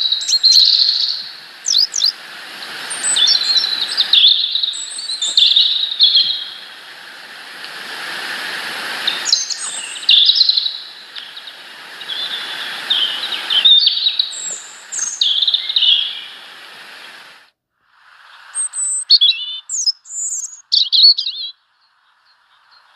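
Small birds chirping with many short, rapid calls and trills over a steady hiss. The hiss stops about three-quarters of the way through, and a few more chirps follow.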